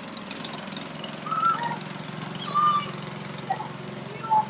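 A small engine running steadily with a low pulsing hum. A few short high-pitched calls sound over it.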